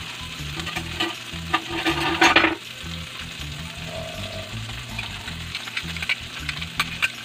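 Fish frying in hot oil in a pan, a steady sizzle broken by sharp crackles and pops, with a louder surge of sizzling about two seconds in.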